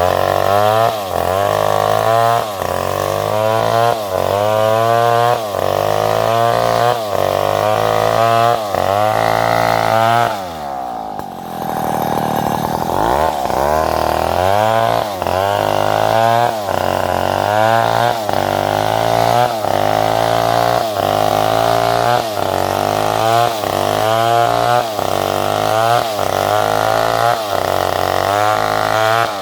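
Chainsaw cutting salam wood, its engine pitch wavering up and down about once a second as the chain bites and eases. About ten seconds in, the engine drops lower for a couple of seconds, then speeds up again and the cutting resumes.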